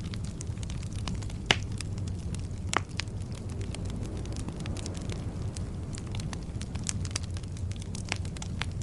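Wood logs burning in a fireplace: a steady low rumble of the flames with frequent small crackles. There is a louder pop about a second and a half in and another just before three seconds.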